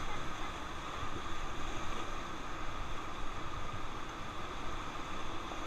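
Steady rush of white-water river rapids, with wind buffeting the microphone.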